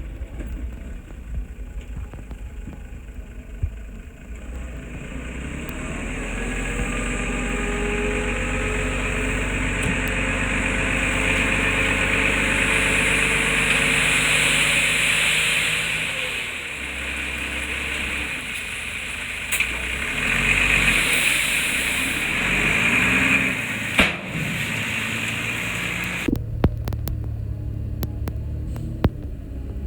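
Diesel engine of heavy earthmoving machinery working, its note rising under load and easing off twice. A single sharp knock comes near the end, and the sound changes abruptly just after it.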